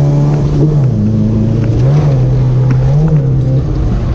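Toyota Corolla TE71's 2T four-cylinder engine revving during a drift, its note dropping about a second in, then rising and falling again several times.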